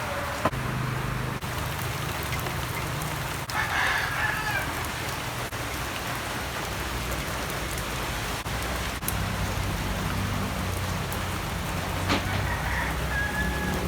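Steady hiss of rain and wind while riding a 150 cc cafe racer motorcycle, with the engine's low steady drone underneath. Two brief high tones sound, about four seconds in and near the end.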